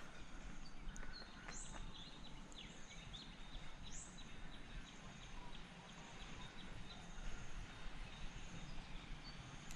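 Quiet ambience with faint bird calls: a few short, high whistled notes and scattered chirps over a steady low hiss.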